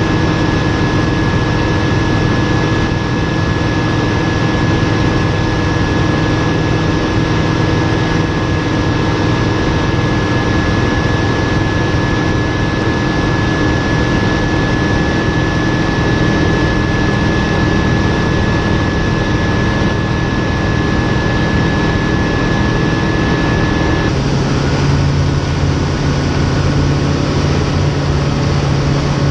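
Light aircraft piston engine running steadily in flight, heard with a steady high whine. About 24 seconds in, the engine note changes and the whine stops, as with a change of power.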